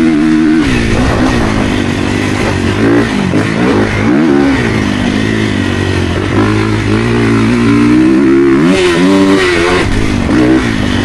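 Motocross bike engine running, its pitch rising and falling again and again as the throttle is blipped.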